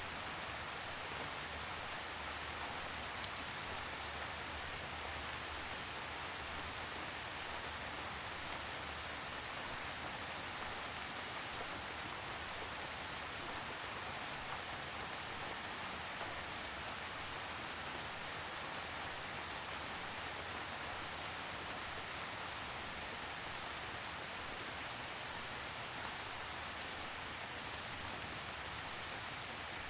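Steady light rain falling on a surface, an even hiss with faint scattered drop ticks.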